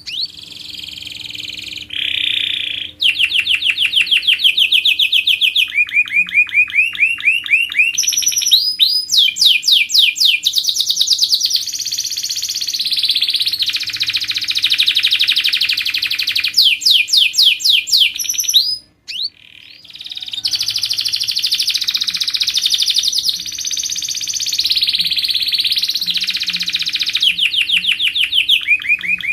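Domestic canary singing a long, fast song of rapid repeated trills and rolling phrases, with one brief pause about two-thirds of the way through.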